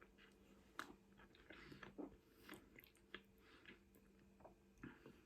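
Faint, close chewing and mouth sounds of someone eating, with irregular small wet clicks and soft bites, over a faint steady hum.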